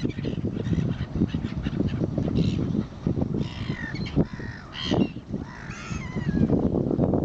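Birds calling: a few short, harsh calls that bend in pitch, clustered in the middle, over a constant choppy low rumble.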